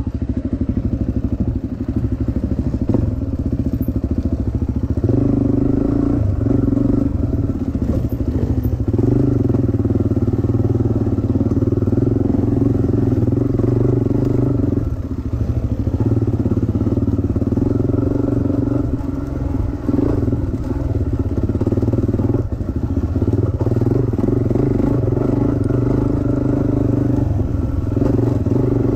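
Dirt bike engine running under load on a trail, its pitch rising and falling in steps every few seconds as the throttle opens and closes.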